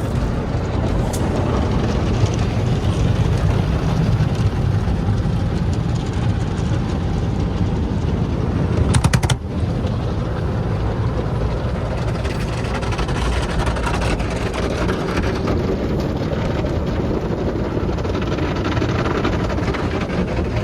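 Motor City Wash Works tunnel car wash running, heard from inside the car: a steady rush of water spray and machinery over a low rumble. A sudden loud hit comes about nine seconds in.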